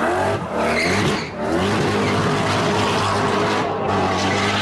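Sports car engine accelerating hard: the pitch climbs, with two short dips in the first second and a half, then holds steady at high revs.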